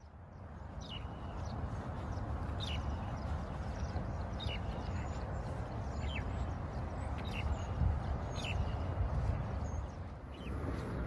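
Birds chirping: a short, falling chirp repeats every second or two over a steady low rumble.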